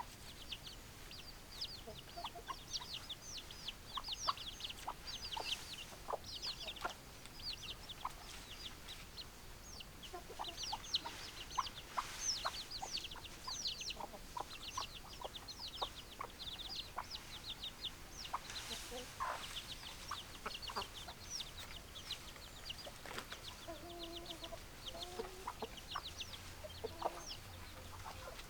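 Chickens calling: a constant stream of short, high, falling chirps, with a few low clucks near the end.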